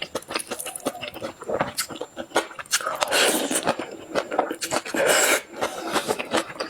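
Close-up eating sounds: a person biting and chewing, with many short crisp clicks, and two longer noisy stretches about three and five seconds in.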